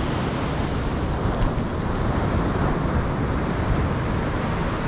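Steady wind buffeting the microphone over the constant wash of breaking surf, with a heavy low rumble.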